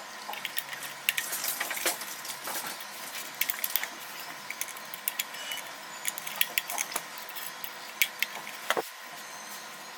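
Irregular small clicks and rattles of stainless steel bird spikes and their fixing clamps being handled and pushed into place on a rain gauge funnel.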